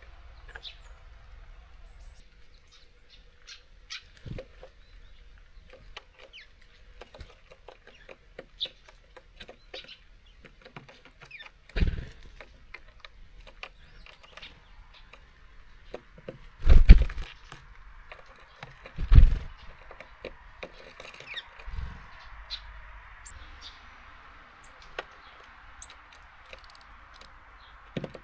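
Small birds at a seed feeder: scattered sharp taps and clicks of beaks and feet on the feeder, with louder thumps and wing flaps about 12, 17 and 19 seconds in, over a steady soft rain hiss.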